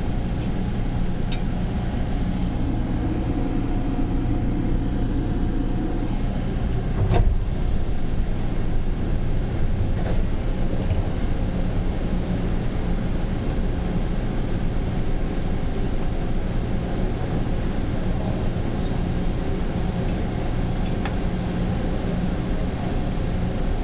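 Steady rumble and hum of a driverless rubber-tyred airport people-mover train, heard inside the car. There is one sharp clunk about seven seconds in, with a short hiss after it.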